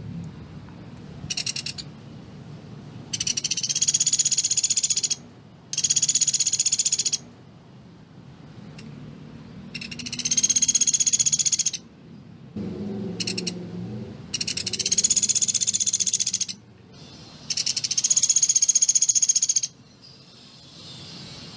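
Pelatuk beras (common flameback woodpecker) giving fast, dense rattling trills, high-pitched. The bursts mostly last one to two seconds, with two shorter ones, and come about seven times with short pauses between.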